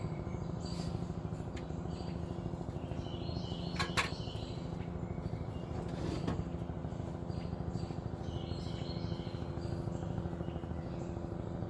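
Helicopter hovering overhead: a steady rotor and engine drone with a fast flutter. Birds chirp over it now and then, and there is a sharp click about four seconds in.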